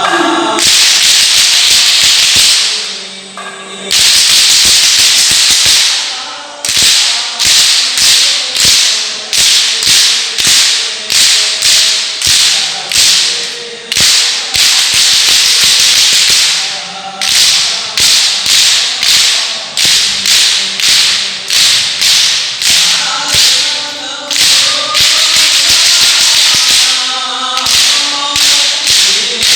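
Hadrah frame drums (terbang) beaten by a group, alternating dense, loud rolls with steady strokes about two a second, under male voices chanting a sholawat.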